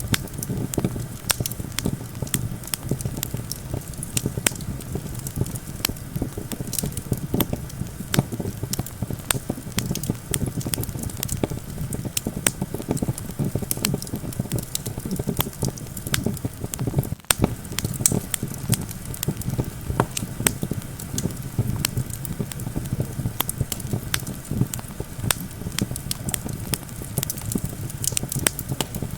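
Wood campfire crackling with frequent irregular sharp pops, over a steady low rumble of wind.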